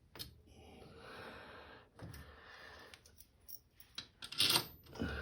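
Light metallic clicks and clinks of 10 mm bolts being handled and started by hand into the washer's motor assembly, with one louder clatter about four and a half seconds in.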